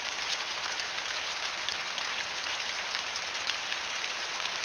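AI-generated rain sound: a steady patter of many fine drops falling on a surface.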